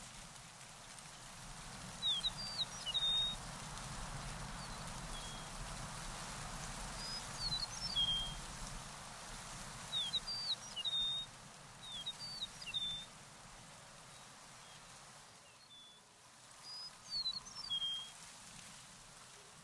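A songbird singing short chirping phrases, about five of them, every two to three seconds, over a steady outdoor hiss.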